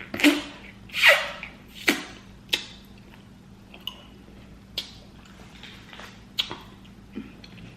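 Close-miked eating sounds: a string of short wet smacks and slurps from mouth and lips, about eight in all, the loudest about a second in.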